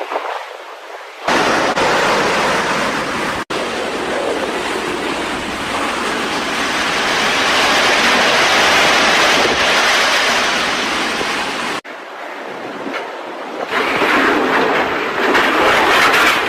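Typhoon-force wind: a loud, steady rushing roar that buffets the microphone. It jumps in level abruptly a few times, with a brief dropout about three and a half seconds in.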